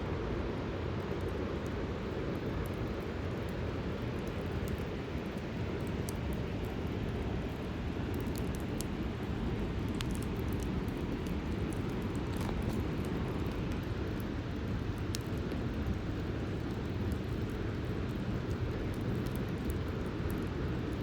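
Campfire burning: a steady low rush of flames with scattered small crackles and pops of burning wood.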